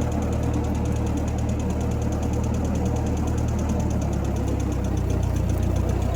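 Vintage Massey Ferguson F40 tractor's four-cylinder engine running steadily, a low putt-putt chuff; its note shifts slightly about four seconds in.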